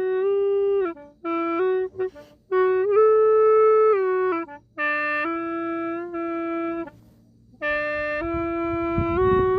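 Khlui, a bamboo duct flute, playing a slow solo melody of held notes with short breaks between phrases and a brief rest a little past the middle. A low rumble comes in under the last notes near the end.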